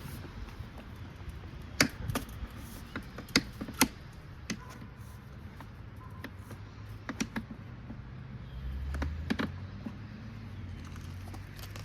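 Scattered light clicks and knocks, about a dozen, of parts being handled as an aftermarket exhaust silencer is fitted onto a dirt bike, with a dull low thud about nine seconds in.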